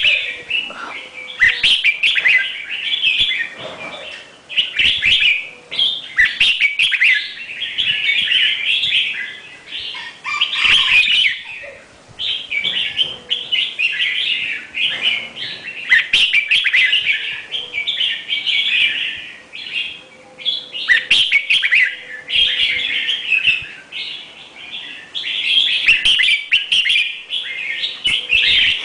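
A bird singing in repeated bursts of rapid chirping phrases, each a few seconds long, with short pauses between them.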